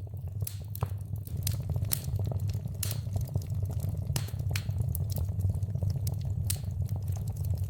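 Wood fire in a fireplace crackling: irregular sharp pops and snaps, a few louder than the rest, over a steady low rumble of the burning fire.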